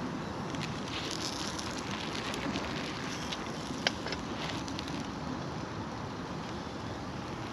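Campfire burning with a steady hiss and scattered sharp crackles and pops, one louder pop about four seconds in.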